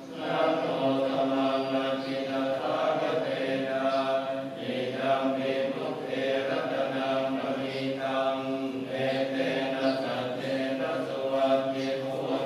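Buddhist chanting: several voices chanting together on a steady low pitch in long, drawn-out phrases.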